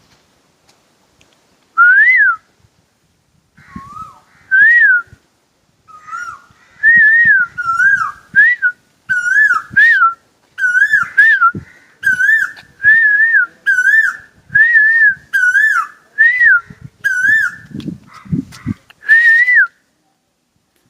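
Asian koel calling: loud, clear whistled notes, two spaced calls at first, then a fast steady series of repeated calls that runs until shortly before the end. Faint low thumps come near the end.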